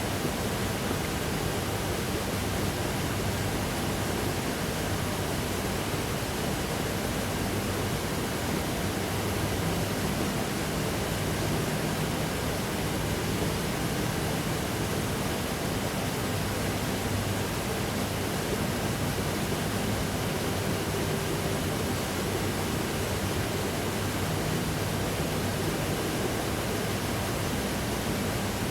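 Steady, unchanging hiss-like noise spread across low and high pitches, with a faint low hum under it.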